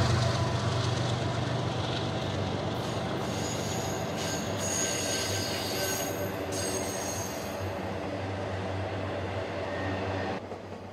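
Intermodal freight train's trailer-carrying cars rolling past: a steady rumble and rattle of wheels on rail, with high thin wheel squeal between about two and seven seconds in. The sound slowly grows quieter and cuts off near the end.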